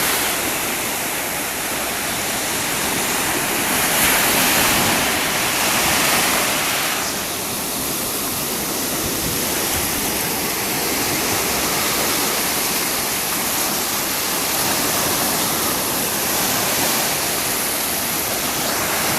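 Sea surf washing onto the shore: a steady rushing of breaking waves that swells a little about four and six seconds in.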